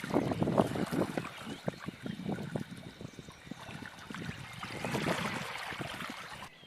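Water trickling and splashing unevenly, like a small stream running over stones.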